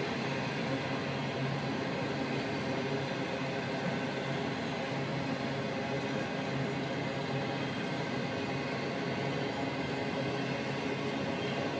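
Steady, even rushing noise with a faint low hum under it, holding at the same level throughout without any sudden knocks or breaks.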